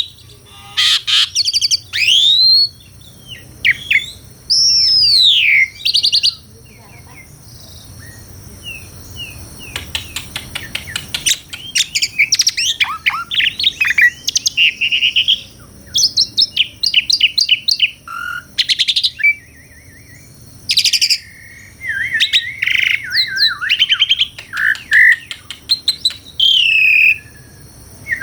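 Asian pied starling (jalak suren) singing a loud, varied song of clear whistles gliding up and down, mixed with rapid rattling trills and chatter. There is a pause of about three seconds after the first six seconds.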